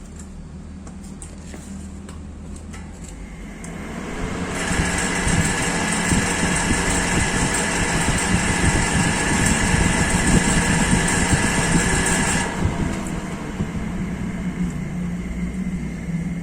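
A Katsu 12-inch exhaust fan driven by a used air-conditioner outdoor fan motor, running with a steady low hum. About four seconds in, its rushing air noise gets much louder, with a steady whine of several pitches, and it drops back about eight seconds later.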